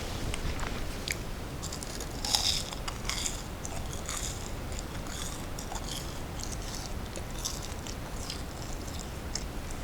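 A person chewing a crunchy snack close to the microphone: a run of irregular crisp crunches and crackles, loudest and densest about two to three seconds in.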